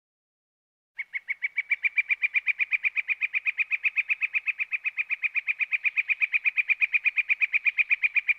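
A bird calling a long, even series of rapid, identical notes, about seven a second, starting about a second in and running on without a break.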